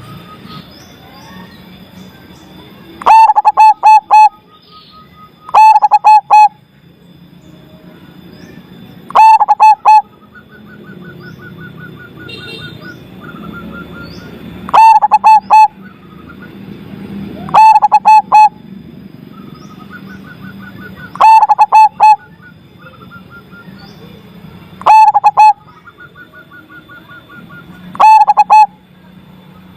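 Zebra dove (perkutut) cooing: a loud phrase of about four quick notes, repeated eight times, roughly every three to four seconds. Between the phrases a softer, fast trill runs on.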